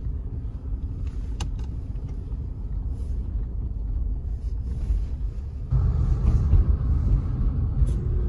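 Car driving, a steady low road and engine rumble heard from inside the cabin, which gets louder about two-thirds of the way through.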